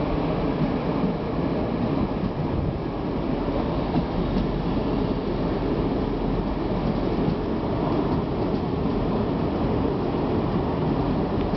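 DSB regional train passing through a station, a steady rumble of wheels on rails that keeps an even level.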